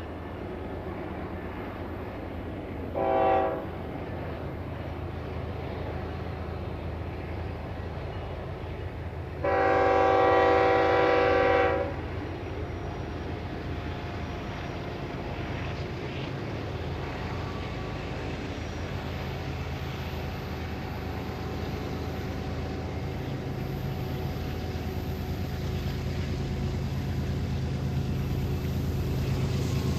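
BNSF freight train's diesel locomotives approaching, their low engine rumble growing louder toward the end. The locomotive air horn sounds a chord twice: a short blast about three seconds in, then a longer, louder blast of about two and a half seconds around ten seconds in.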